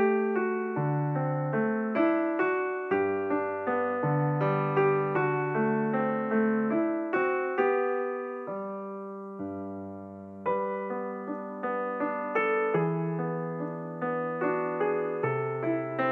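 Background piano music: a solo piano playing a slow run of notes, with a held chord fading away a little past halfway before the notes resume.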